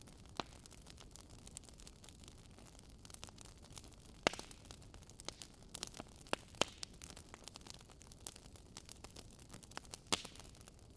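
Wood campfire burning and crackling: scattered sharp pops and snaps over a faint steady hiss, the loudest pops about four seconds in, around six seconds and near the end.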